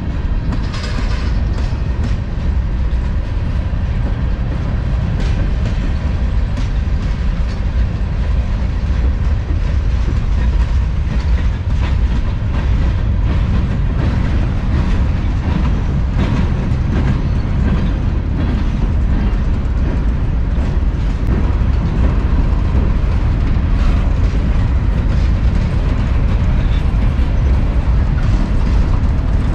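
Manifest freight train's cars rolling past, a steady loud low rumble with frequent clicks.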